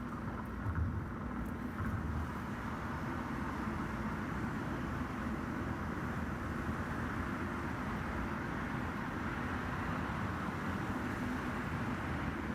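Steady road and engine noise of a car driving along a highway, with a low hum under it and a few low bumps in the first two seconds.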